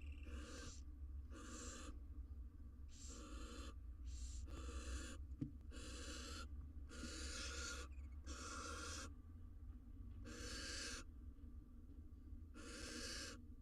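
Barn owl nestlings making their hissing begging calls, about ten separate hisses, over a steady low electrical hum.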